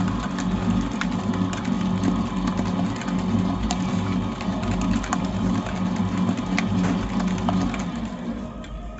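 Electric mixer running steadily while beating cookie dough, its motor humming, with frequent light clicks of the beater against the bowl. The hum eases off near the end.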